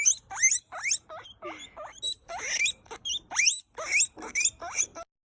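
Cartoon sound effect of an animal squeaking: a fast run of short, high-pitched squeaks, each gliding up in pitch, about three a second, ending abruptly near the end.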